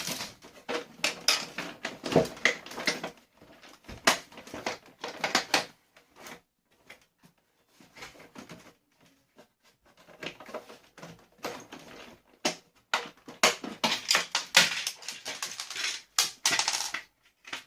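Hard plastic parts of a vacuum cleaner being handled and pulled apart: irregular clicks, knocks and rattles, sparse in the middle and busier toward the end.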